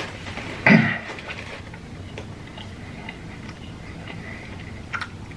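Close-miked chewing of a mouthful of loaded nachos, with soft scattered mouth clicks and a sharper click near the end. A short, loud vocal hum comes about a second in.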